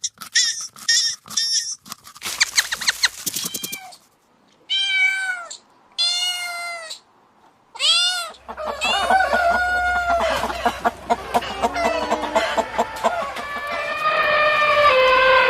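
A run of different animal calls one after another: quick high chirps at first, then two drawn-out calls that rise and fall in pitch, then several calls overlapping for the rest of the stretch.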